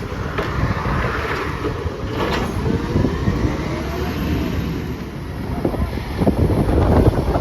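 Garbage truck at work on a recycling collection: engine running with rumbling, knocking and clattering from the truck's mechanism and load, and a few rising and falling whines.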